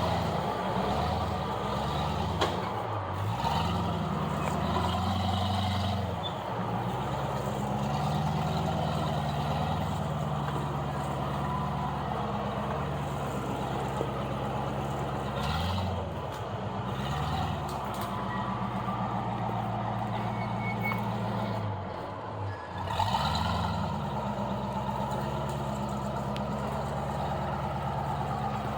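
Off-road vehicle engine running steadily, revving up and dropping back a few times.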